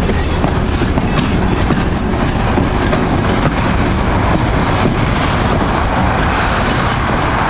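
Diesel switcher locomotive pulling a caboose and passenger coaches past close by, then moving away: a steady engine rumble mixed with the clack of wheels over rail joints.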